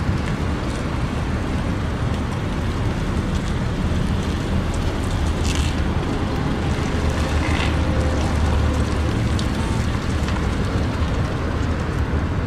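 Steady low rumble and hiss of a car, with no clear events.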